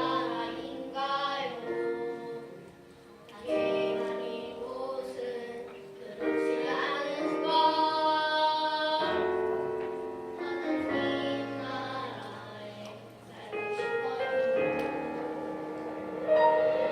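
Church praise team, mostly women's voices, singing a worship song in held, sustained phrases over instrumental accompaniment.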